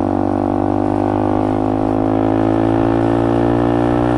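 Benelli TNT 125's single-cylinder four-stroke engine running steadily at cruising speed while the motorcycle is ridden, with wind rush.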